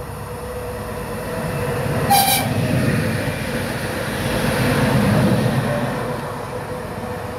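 Electric multiple unit passing through a station without stopping: a short, high horn toot a little after two seconds in, then the rumble and wheel noise of the train growing to its loudest around five seconds in and easing off as it goes by.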